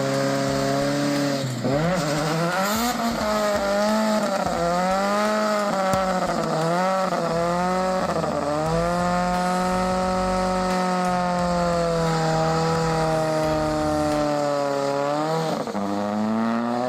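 Car engine revving hard, its pitch rising and falling again and again, holding fairly steady for a few seconds midway, then dipping and climbing again near the end.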